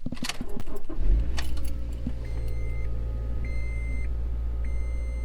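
Keys jangling, then a car engine starting about a second in and settling into a steady idle, while a high beep repeats about once a second.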